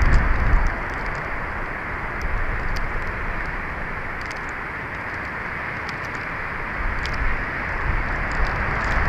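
Strong wind blowing across an outdoor camera microphone: a steady rushing hiss with low buffeting rumbles about the first half-second and again near the end, and faint scattered ticks.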